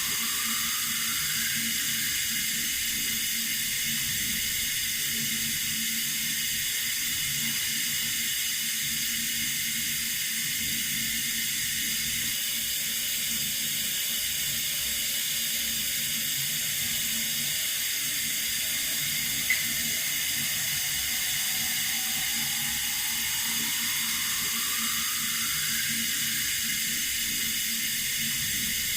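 Water running steadily from a tap, an even hiss weighted toward the high end, with one faint click about two-thirds of the way through.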